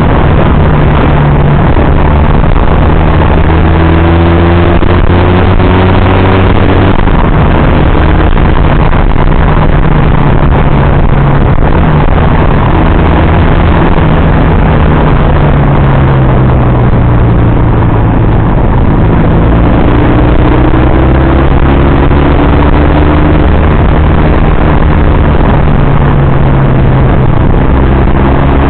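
Motorcycle engine running on the move, its pitch sliding down and up several times as the speed changes, over a loud steady rush of noise.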